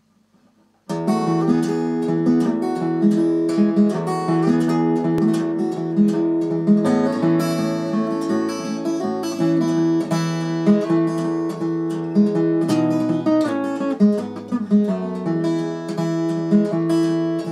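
Brook 'Clyst' parlour acoustic guitar playing an intro, the notes picked out one after another in a steady run. It starts about a second in.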